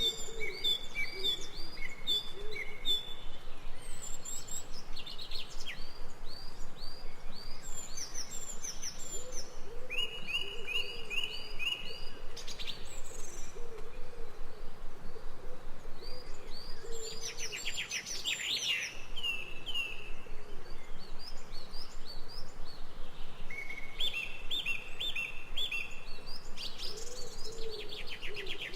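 Jungle bird chorus: several birds calling at once, with series of short repeated whistled notes, quick trills and a low cooing call that comes and goes.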